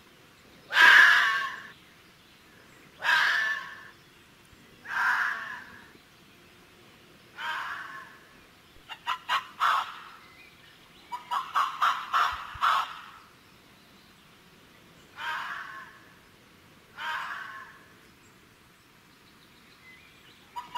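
An animal calling over and over: long calls about two seconds apart, broken twice by bursts of rapid, clucking-like short notes.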